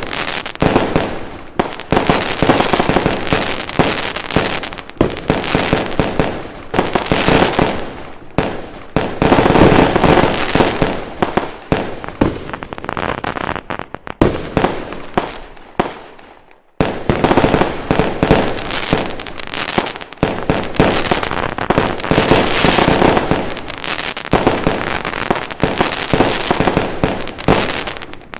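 Fireworks and firecrackers going off in a dense, continuous barrage of rapid bangs and crackling. Past the middle the barrage fades away, drops out briefly, then starts again abruptly at full strength.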